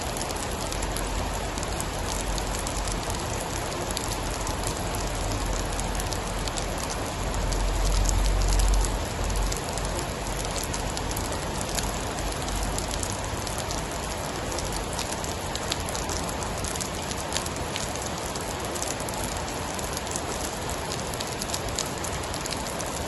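Steady rain falling with many fine drop ticks. A low rumble swells and fades about eight seconds in.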